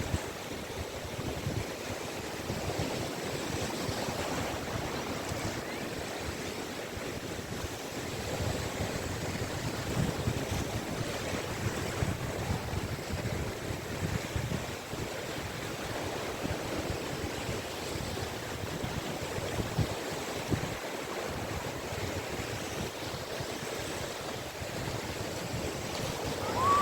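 Sea waves washing onto a beach: a continuous wash of surf that rises and eases gently in loudness.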